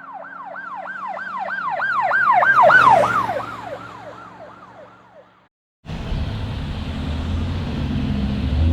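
Police car siren in a fast wail, about three sweeps a second, growing louder as it approaches and then dropping in pitch and fading as it passes. After a brief gap, a motor vehicle's engine rumbles steadily with road noise.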